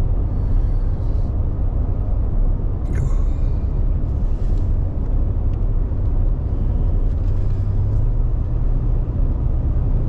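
Steady engine and tyre rumble inside the cab of a 2022 Ram 1500 pickup driving along the road, with a brief click about three seconds in.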